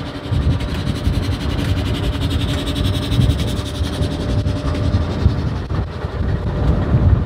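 The Ghan passenger train moving slowly at departure: a steady low rumble with a hum over it.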